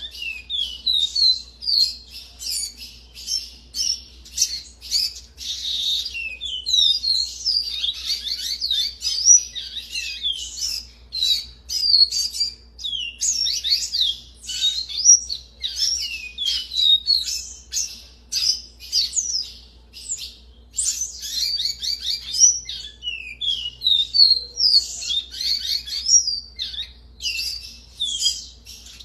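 Caboclinho, a small Sporophila seedeater, singing a long run of quick, high, sweeping whistled notes in phrases with short pauses between them.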